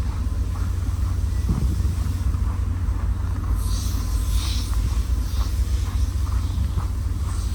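Steady low rumble of a standing passenger train, mixed with wind buffeting the microphone, and a brief hiss about four seconds in.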